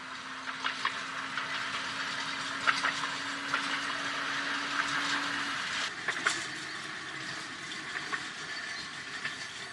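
Electric tram running on its rails: a steady low hum that cuts off a little past halfway, over a continuous running noise with frequent sharp clicks and rattles.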